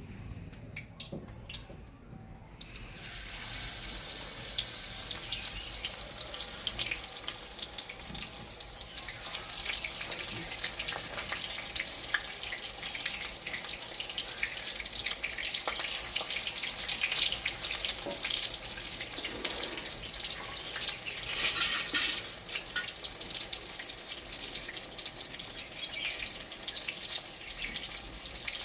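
Battered water spinach pakoras deep-frying, the hot oil sizzling and crackling steadily; it starts about three seconds in.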